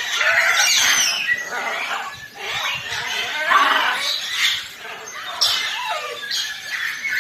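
Birds calling and squawking, with several loud, overlapping calls that slide in pitch.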